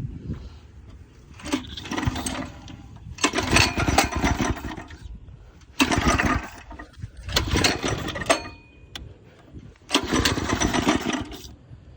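Small 196 cc single-cylinder go-kart engine being pull-started about five times, each pull a short burst of cranking and firing that dies away without settling into a steady run. The carburetor's fuel mixture screw and a plug have fallen out.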